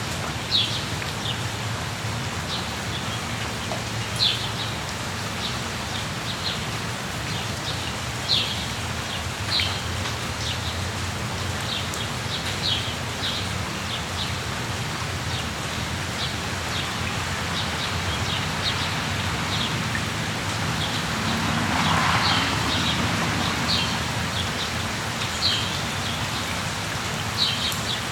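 Steady rain falling, with short, high bird chirps scattered throughout, roughly one every second or two. About 22 seconds in, the noise swells briefly louder.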